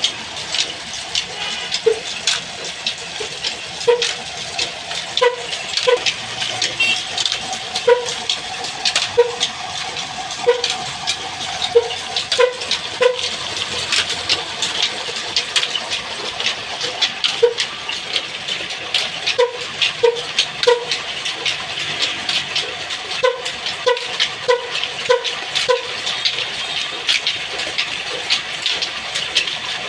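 Old Ruston diesel engine running with a dense, irregular clatter. Short high squeaks come and go throughout.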